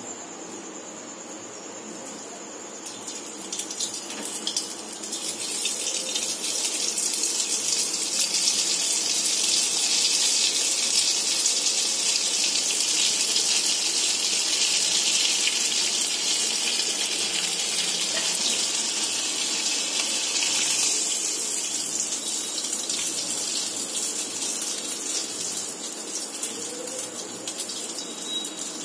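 Grated sitabhog dough strands (chhena) sizzling as they fry in hot oil in a kadai. The hiss builds over the first few seconds, holds steady, and dies down over the last third.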